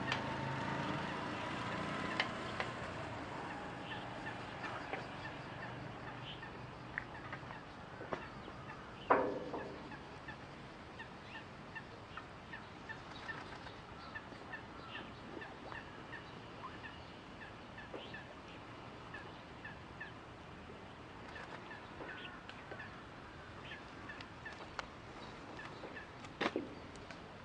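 A small bird chirping over and over in short, high calls, with one louder call falling in pitch about nine seconds in.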